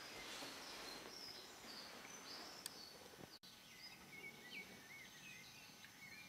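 Faint room tone with distant birds chirping, short scattered calls that come more often in the second half. A soft hiss over the first couple of seconds and a brief dropout about halfway.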